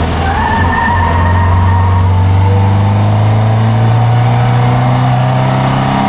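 In-cabin sound of a Triumph Dolomite's Sprint 2.0-litre 16-valve slant-four engine pulling hard through a bend, its revs climbing steadily as the car accelerates onto the straight.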